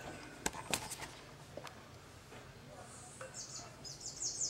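A bird chirping: a quick run of high, falling chirps, about five or six a second, starting about three seconds in. Before it come a few light clicks and knocks of handling.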